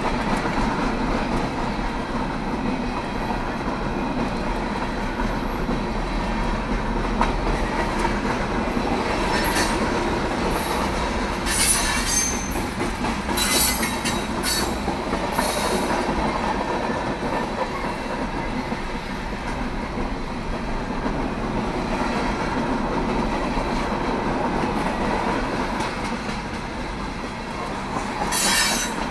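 Norfolk Southern freight train's hopper and tank cars rolling past: a steady rumble and clatter of steel wheels on rail. Brief high-pitched wheel squeals come several times midway and once more near the end.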